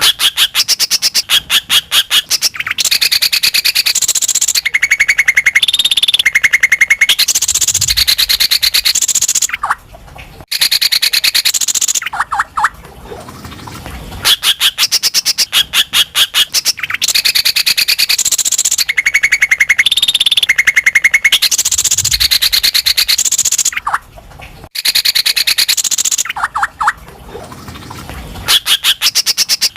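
Cucak ijo (greater green leafbird) song used as a lure track: loud, fast runs of high chattering notes mixed with whistled phrases. The same sequence repeats after a short break about every eleven seconds.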